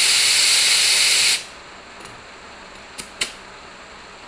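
Air hissing at a tractor tire's inner-tube valve, cutting off suddenly about a second and a half in, followed by two short clicks.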